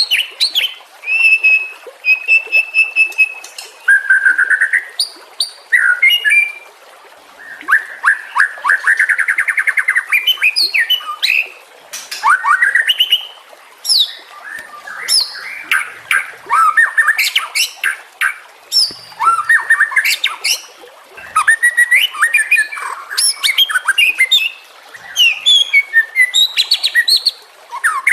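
White-rumped shama (murai batu) singing a long, varied song: clear held whistles, quick rising and falling sweeps, high thin notes and fast rattling trills, phrase after phrase with short pauses between.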